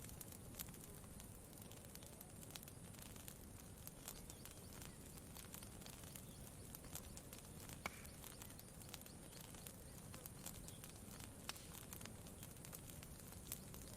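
Faint campfire crackling, with scattered small pops and one sharper pop about eight seconds in, over a low steady wash of lake water.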